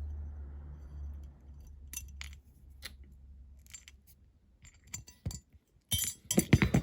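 Small plastic and metal parts of a diecast model clicking and tapping together as a dashboard is forced into the metal body, with a few scattered clicks and a quick flurry of them near the end. A low hum underlies the first few seconds.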